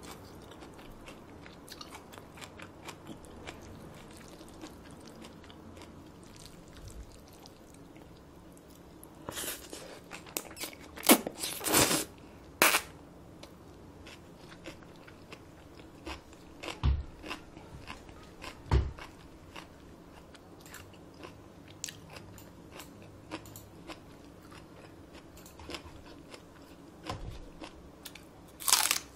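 Close-miked eating sounds: soft chewing broken by sharp crunchy bites every few seconds, the loudest a cluster of crunches about halfway through. Near the end comes a crisp bite into a raw Korean green onion (daepa) stalk.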